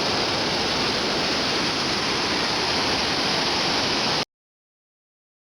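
Steady, heavy rush of a waterfall's falling water, which cuts off abruptly about four seconds in, leaving dead silence.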